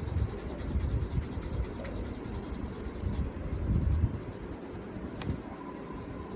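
Colour pencil scratching on paper in quick, uneven shading strokes as an area is filled in with colour.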